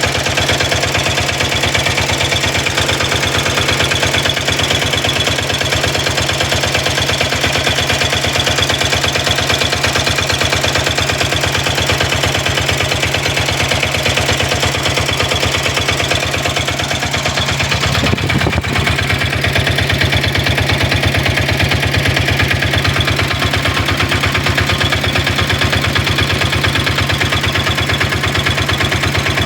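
Newly built Bajaj diesel auto-rickshaw engine, a single-cylinder diesel, idling with a steady, even chugging beat. The note briefly changes about two-thirds of the way through, then settles back to the same idle.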